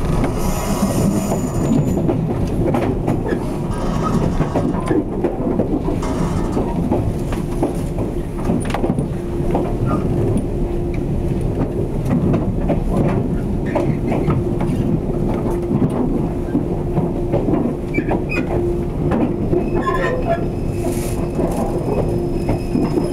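Running noise heard inside a 485-series electric express train rolling into a station: wheels rumbling and clicking over rail joints. A steady tone joins about nine seconds in and holds on.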